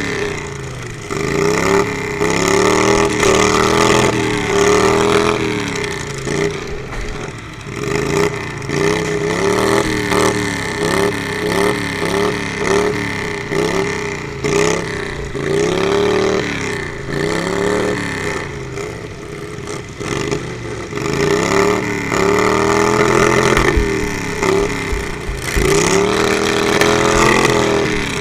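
Riding lawnmower engines revving up and down over and over, the pitch rising and falling every second or two as the mowers throttle hard and back off.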